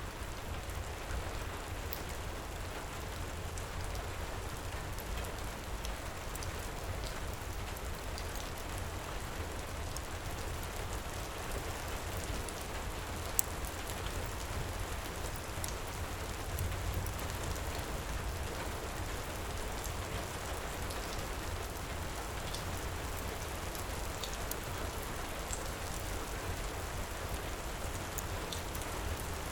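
Heavy rain falling in a steady wash with a low rumble beneath, and scattered small pops of a crackling wood fire; one sharper pop about halfway through.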